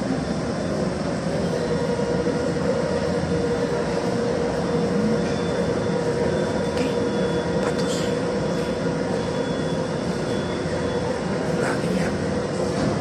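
Electric light rail train pulling out of an underground station and running past, with a steady hum and rumble and a few sharp clicks.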